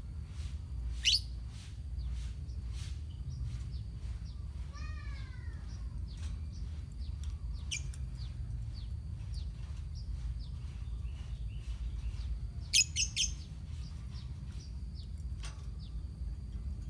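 Colony of lovebirds chirping: scattered sharp, high chirps, the loudest a quick run of three about three-quarters of the way in, over a steady low hum.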